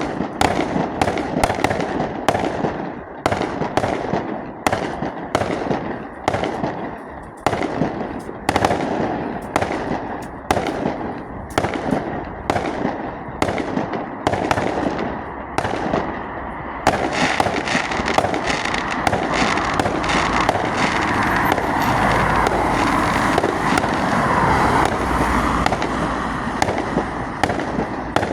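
Fireworks display: a rapid series of sharp bangs, about one and a half a second, giving way about seventeen seconds in to a dense, continuous crackling barrage.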